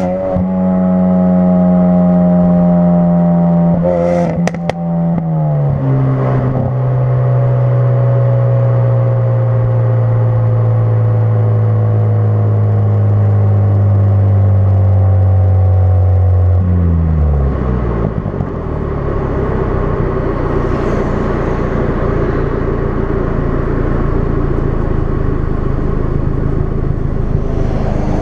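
2016 Ford Focus RS's turbocharged 2.3-litre four-cylinder running through a custom-fabricated exhaust, with a loud steady engine note. A few sharp clicks come about four seconds in, and the pitch then steps down and sinks slowly. After about seventeen seconds the steady note drops away into a rougher, lower rumble.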